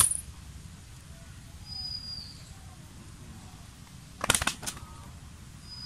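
Quiet outdoor background with a faint high bird call, a thin whistle-like note that dips at its end, heard about two seconds in and again near the end. A brief cluster of sharp clicks about four seconds in is the loudest sound.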